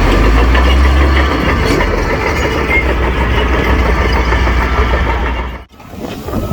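Heavy diesel earthmoving machinery running, with a deep steady rumble and engine clatter. The sound drops out abruptly about five and a half seconds in, then returns weaker.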